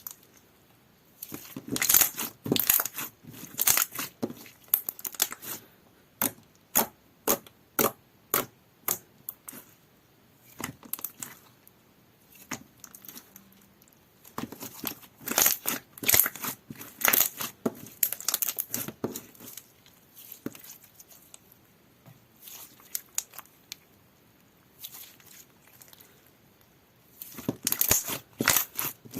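Slime being squished and poked by hand, with runs of sharp wet pops and crackles in bursts separated by short pauses, the densest near the end.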